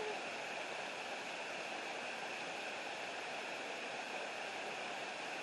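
Steady rush of a waterfall and the stream below it, an even hiss with no breaks.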